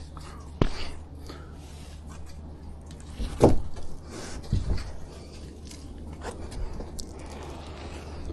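Knocks and scuffs of a person climbing, with three louder thumps about half a second, three and a half and four and a half seconds in, the middle one the loudest, over a steady low hum.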